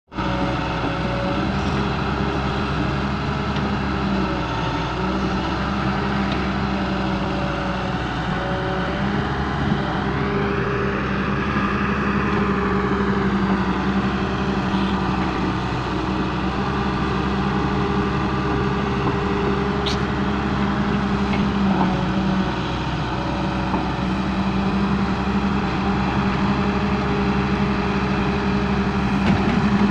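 Volvo EW130 wheeled excavator's diesel engine running steadily, with a higher whine that rises and then falls about ten seconds in, and one sharp click about two-thirds of the way through.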